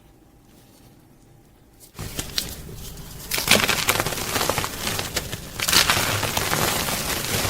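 Gym chalk being crushed and crumbled, a dense crunching and crackling full of sharp snaps. It starts suddenly about two seconds in after a quiet stretch and gets thicker and louder about a second later.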